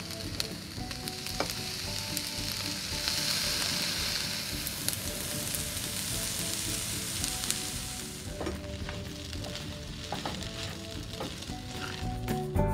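Egg fried rice sizzling in a hot nonstick wok, the sizzle loudest a few seconds in, with a spatula clicking and scraping against the pan as the rice is stirred.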